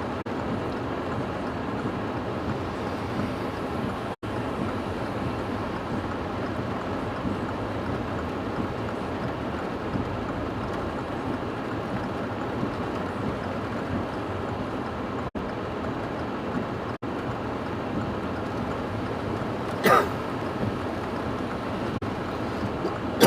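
Steady rushing wind blowing against the microphone, with a brief pitched sound, like a short call or voice, near the end.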